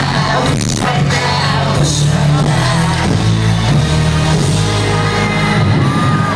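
Live hip-hop song played loud over a concert sound system: a steady bass line and drum hits under a sung vocal.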